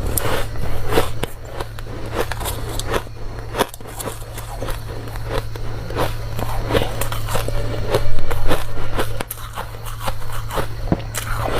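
Close-miked crunching of hard ice as it is bitten and chewed, in irregular crisp crunches that are loudest about eight seconds in, over a steady low hum.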